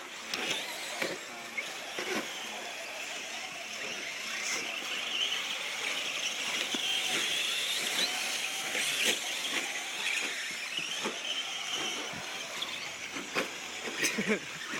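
Several radio-controlled short course trucks racing: their motors and drivetrains whine high and waver up and down with throttle, with scattered clicks and knocks from the trucks over the track.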